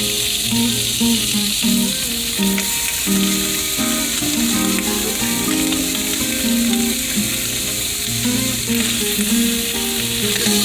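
Brown trout fillets frying in butter in a pan: a steady sizzle, with background music of held notes underneath.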